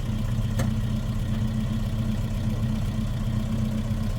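A vehicle engine running steadily with an even low hum, and a single sharp click about half a second in.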